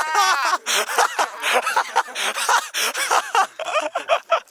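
Several men's voices laughing and chattering, with a long drawn-out vocal call at the start.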